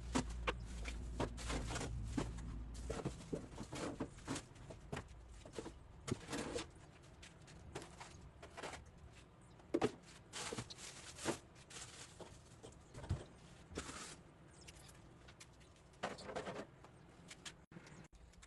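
Irregular clattering, knocking and rubbing of plastic refrigerator shelves and drawers being handled and washed, with a few short scraping bursts.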